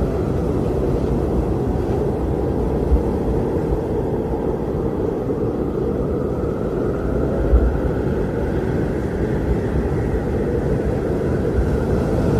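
Strong blizzard wind blowing steadily as a deep roar, with a faint howling tone that slowly rises and falls in pitch. Two brief low gusts stand out, one about three seconds in and one a little past halfway.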